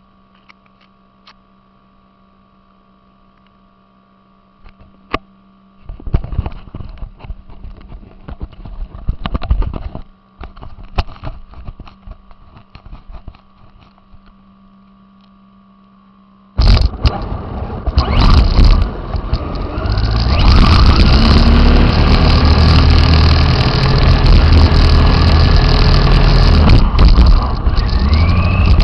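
An RC car driving, heard close up: a few seconds of near-quiet steady hum, then irregular rattling and scraping from about six seconds in. About halfway through it gives way to a loud continuous rumble and rattle, with brief rising motor whines near the end.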